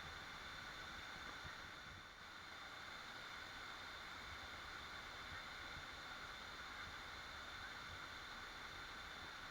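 Waterfall rushing in a steady, even hiss, with a slight dip in level about two seconds in.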